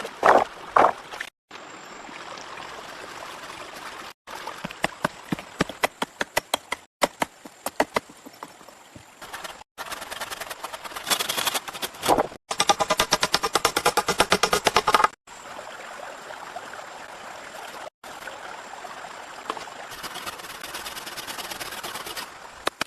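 Quick cuts between outdoor work sounds: runs of sharp knocks, and a fast even rattle near the middle, over a steady hiss of rain.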